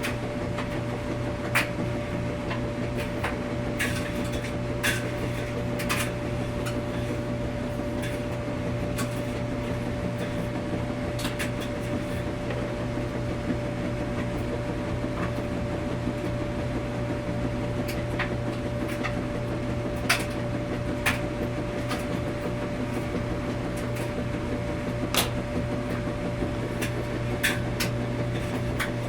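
Washing machine running with a steady low hum and a constant mid-pitched tone. Light clicks and knocks come now and then at irregular times.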